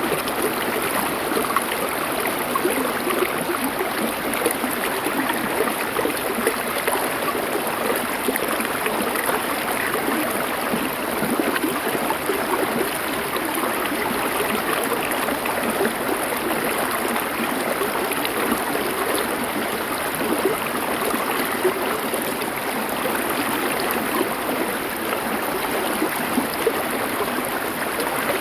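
Small river or stream flowing over stones: a steady rushing and babbling of water.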